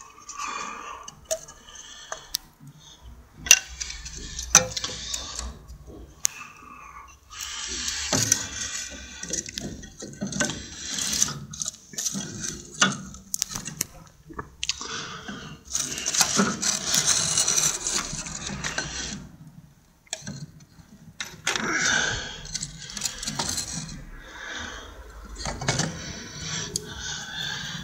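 Objects being handled: repeated sharp knocks and clinks, broken up by several longer stretches of rustling or scraping.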